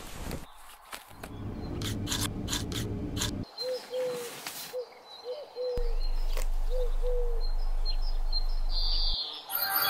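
Short bird calls, several in a row, with a rustling noise before them and a steady low hum under the second half that stops near the end.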